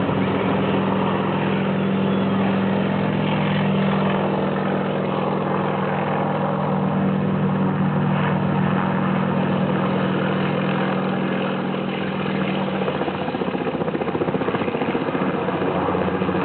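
Sikorsky H-34 helicopter hovering, its Wright R-1820 nine-cylinder radial engine and rotor running steadily. The steady engine hum fades about three-quarters of the way through, leaving a fast, even rotor beat.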